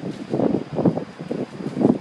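Strong typhoon wind buffeting the microphone in irregular, quick gusts.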